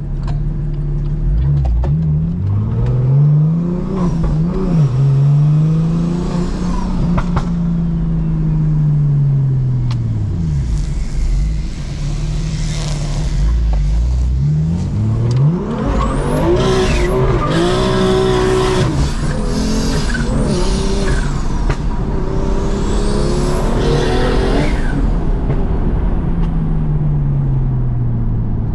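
Single-turbo BMW M2 Competition straight-six with a straight titanium exhaust, heard from inside the car, pulling up through the revs and dropping back again and again as it shifts gears. From about sixteen seconds in it revs harder for several seconds, with a high whistle sweeping up and down over the engine.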